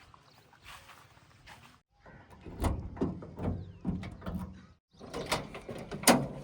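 Engine running with a low steady hum under several metallic clanks and knocks, the loudest near the end, broken by a short silent gap about two seconds in and another nearer five.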